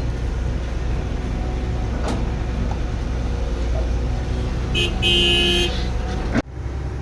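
A vehicle engine runs with a steady low rumble. About five seconds in, a horn sounds twice: a short toot, then a longer one. Near the end the sound cuts off abruptly.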